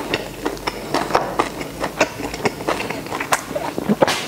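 Close-miked chewing of braised beef: irregular wet mouth clicks and lip smacks, several a second, with a sharper smack near the end.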